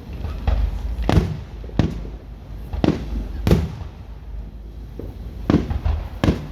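Fireworks shells bursting in the air: about nine sharp bangs, one every half second to a second, over a steady low rumble.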